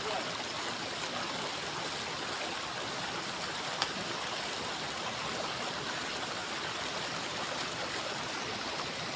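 Steady rush of waterfall water, with a single sharp click about four seconds in.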